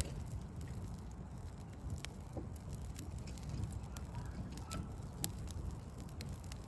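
Backyard wood fire of logs crackling, with scattered sharp pops, the sharpest at the very start and about five seconds in, over a steady low rumble.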